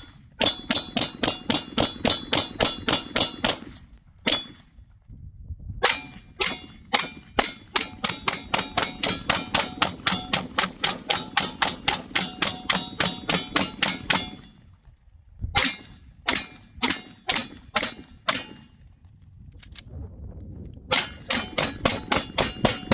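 ZRO FKS-9 9mm pistol fired in fast strings, about five or six shots a second, with brief pauses about four and fifteen seconds in and a few slower, spaced shots before a last quick string near the end.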